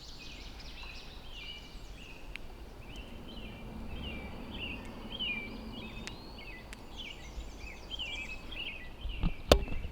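Several songbirds chirping and singing, a steady run of short repeated calls from more than one bird. A few sharp knocks come near the end.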